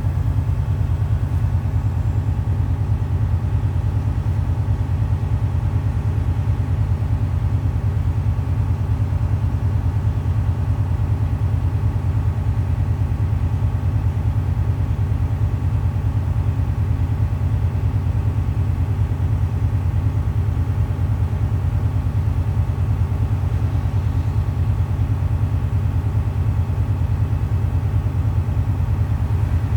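Heavy truck's diesel engine held at high idle, a steady low rumble with even firing pulses and no change in speed, running up to rebuild air-brake pressure.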